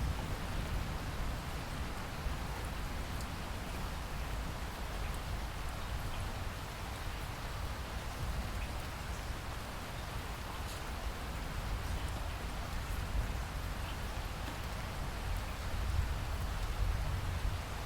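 Steady rainstorm: an even hiss of rain with a low rumble underneath and scattered faint ticks of individual drops.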